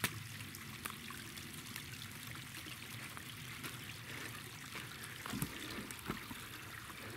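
Stream water trickling steadily through and over a small leaking dam, with a few faint knocks.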